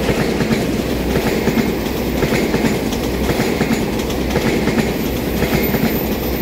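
Taiwan Railway EMU3000 electric multiple unit passing close by: a steady, loud rolling rumble with a rhythmic clickety-clack of its wheels over the rail joints.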